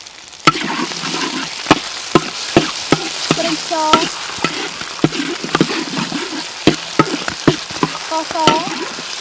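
Chili paste sizzling in hot oil in a metal wok; the sizzle grows sharply louder about half a second in. A metal spoon clinks and scrapes against the wok throughout, with a couple of brief metallic squeals.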